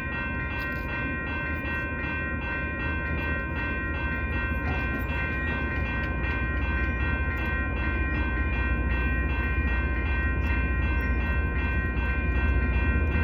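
Diesel locomotives of a CPKC freight train, a Kansas City Southern unit leading, pulling away from a stop. The low engine rumble grows steadily louder, with a high, rapidly pulsing ringing held steady over it.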